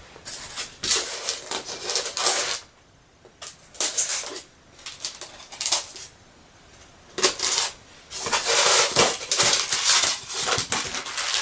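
Packaging of a diecast model being handled and pulled apart: irregular bursts of rustling and scraping with small clicks and knocks, broken by short quiet pauses.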